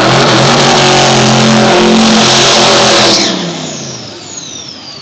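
Two turbocharged diesel drag-racing pickups launching side by side down the strip, their engines very loud and climbing in pitch. About three seconds in the sound drops away as they pull off down the track, leaving a high whine that slides down in pitch.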